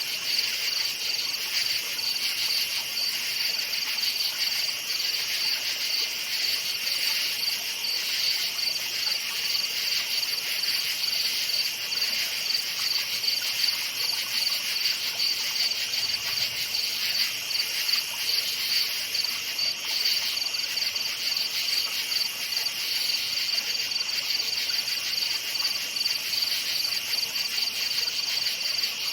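Chorus of crickets chirping steadily, a dense, rapidly pulsing high trill with a second, slightly lower insect band beneath it.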